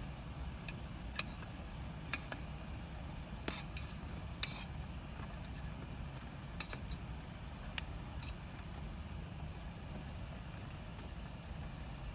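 Wood bonfire crackling, with irregular sharp pops a second or so apart over a steady low rumble.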